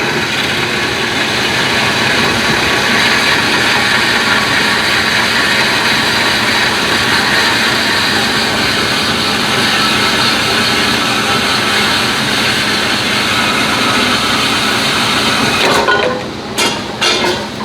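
A power tool runs steadily as a loud even noise, then stops near the end, followed by a few short knocks.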